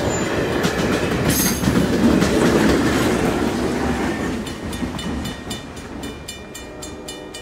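Passenger train cars roll over a grade crossing with wheels clacking over the rail joints, and the diesel locomotive at the rear passes. As the train moves off and the sound fades, the crossing signal's bell rings in rapid, even strikes.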